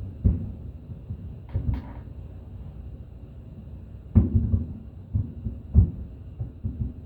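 Fireworks shells bursting: a series of dull booms, one just after the start and a pair about a second and a half in, then a quick run of booms from about four seconds in, the loudest near six seconds.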